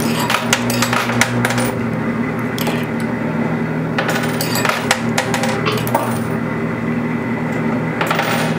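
Quarters dropping and clinking on the metal playfield of a coin pusher arcade machine, in clusters of sharp clicks near the start, around four to five seconds in, and near the end. A steady machine hum runs underneath.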